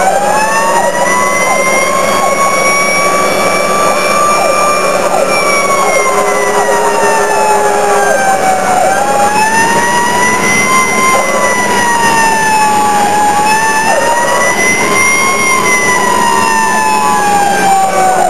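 Fire engine siren wailing, its pitch rising and falling slowly and unevenly, about three swells across the stretch, over a steady low drone.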